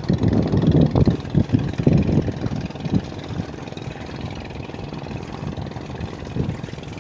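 Strong wind buffeting the microphone in irregular gusts, a rough low rumble that is heaviest in the first few seconds and then eases.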